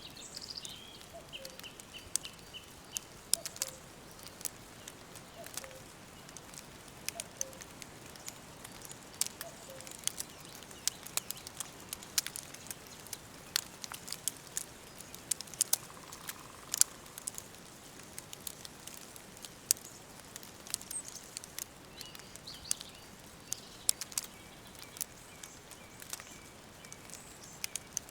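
Wood fire crackling with irregular sharp pops over a faint steady hiss, mixed with birdsong. Falling whistled bird calls come near the start and again near the end.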